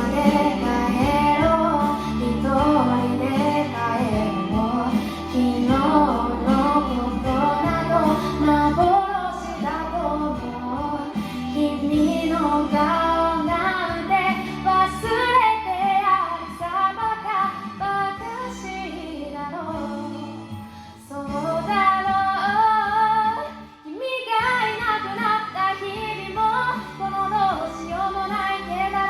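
A woman singing a Japanese pop song over backing music.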